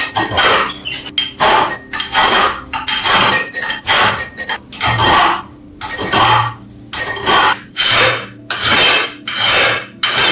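Hand strokes scraping across metal, repeated about twice a second with short pauses between them.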